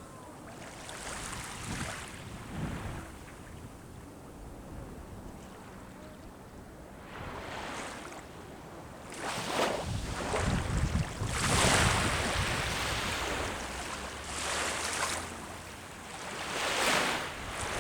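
Sea waves breaking and washing up the shore, each wash swelling and fading over a few seconds; quiet at first, the surf grows loudest from about halfway through.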